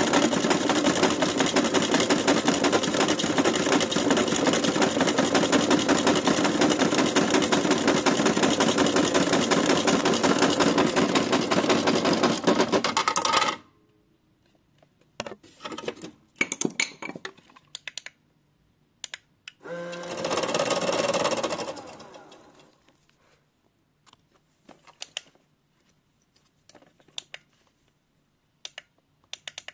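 AEG washing machine being run to destruction: a loud, rapid mechanical rattle that cuts off suddenly about thirteen seconds in. Scattered clicks and knocks follow, with a brief louder burst of noise about twenty seconds in.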